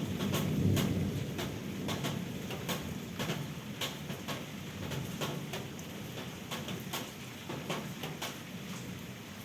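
Rain during a thunderstorm: large drops strike a surface in irregular sharp ticks over a steady hiss, while the rumble of thunder dies away in the first second or two.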